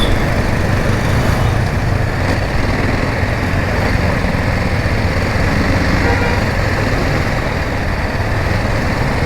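Motorcycle running on the road with steady wind rush over the microphone and surrounding road traffic.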